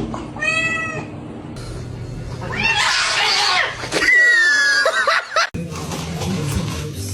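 Cat meowing several times, including a louder, rougher cry in the middle. The sound breaks off abruptly about five and a half seconds in.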